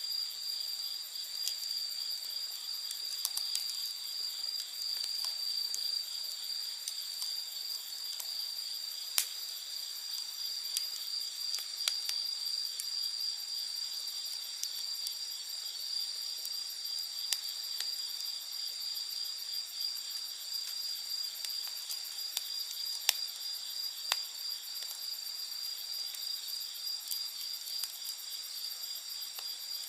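A steady, high-pitched chorus of night insects, with scattered sharp pops and crackles from a wood campfire, a few of them louder.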